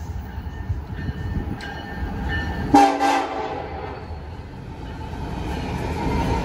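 Approaching Union Pacific freight train: one short horn blast about three seconds in, then the rumble of its diesel locomotives and wheels growing louder as the lead units pass close by.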